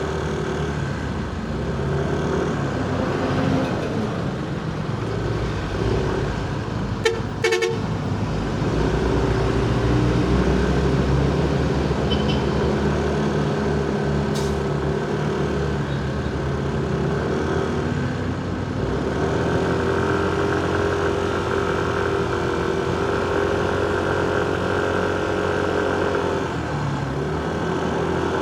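Motorcycle riding in heavy city traffic: engines running steadily around it, with car horn toots from the traffic. A short clatter about seven seconds in.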